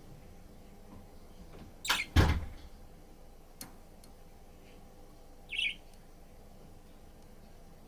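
Two sharp knocks about two seconds in, the second the loudest, then a smaller click, and a single short budgerigar chirp a little over five seconds in.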